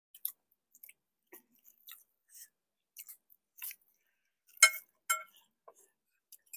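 Quiet chewing and gnawing on pork bones from a curry: scattered small mouth clicks and crackles. A metal spoon clinks twice against the plate a bit past halfway.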